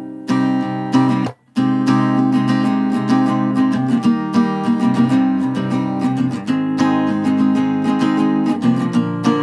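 Acoustic guitar strumming chords in an instrumental interlude, with no singing. The playing stops dead for a moment about a second and a half in, then the strumming picks up again.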